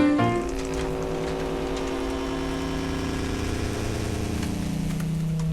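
Volkswagen T-Roc engine idling steadily.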